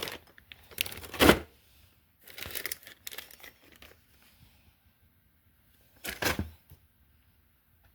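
Plastic packaging crinkling and rustling as parts are handled, in three short bursts with quiet gaps; the loudest comes about a second in.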